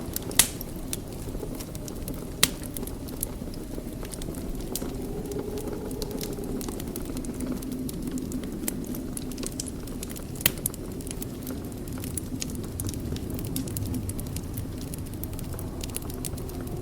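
Fire in a fireplace crackling, with scattered small snaps over a steady low rush. Louder pops come about half a second in, again near two and a half seconds, and once more about ten seconds in.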